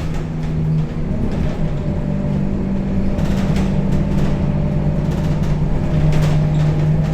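Rear-mounted diesel engine of a Scania K270UB city bus running under way, heard from inside the cabin. Its steady hum shifts pitch about a second in and again near six seconds, with a few light rattles in between.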